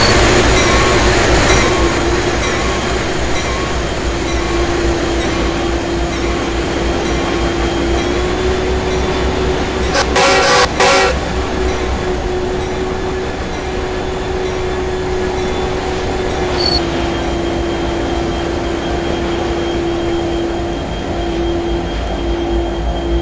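CPKC freight train passing: a steady low rumble with a sustained droning tone, and a short cluster of sharp clatter about ten seconds in.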